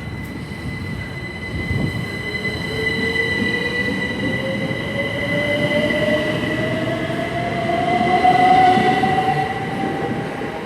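Two coupled Class 387 Electrostar electric multiple units accelerating, their traction motors giving a whine that rises steadily in pitch over the rumble of the wheels, with a steady high tone above. It gets louder towards a peak near the end.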